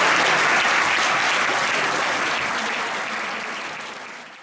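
Audience applauding, fading steadily away toward the end.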